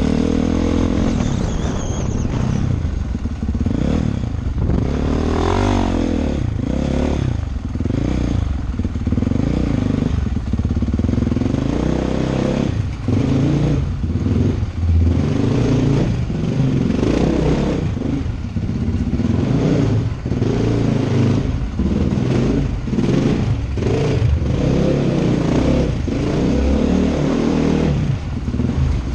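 Honda CRF450R dirt bike's single-cylinder four-stroke engine, revved up and down over and over in quick bursts of throttle, with scattered clattering knocks from the bike on rough ground.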